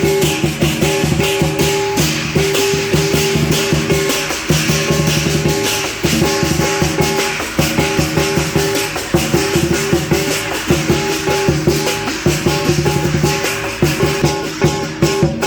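Chinese lion dance percussion: a large drum beaten in a fast, dense rhythm under clashing cymbals, with held ringing metallic tones. The playing is continuous.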